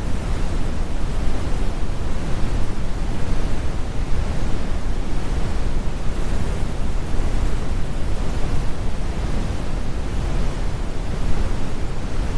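Synthetic brown noise: a steady, deep rumbling hiss with its weight in the low end and the high frequencies rolled off.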